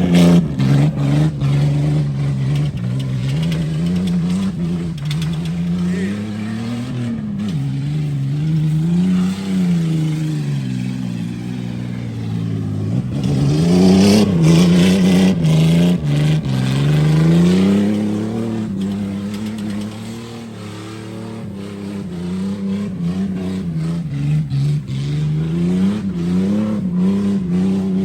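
Car engine revving hard, its pitch climbing and dropping again and again, with longer pulls about halfway through.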